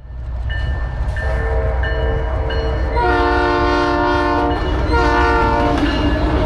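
Freight diesel locomotive horn sounding a chord in a series of blasts, the longest about three seconds in, over the steady low rumble of the approaching locomotives.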